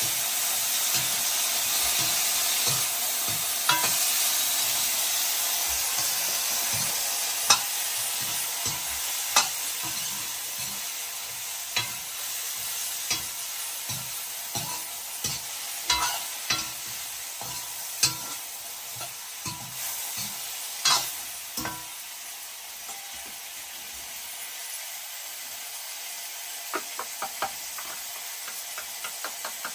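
Soybeans and green beans sizzling as they stir-fry in a wok, with a metal ladle scraping and knocking against the pan at irregular intervals. The sizzle quietens after about twenty seconds.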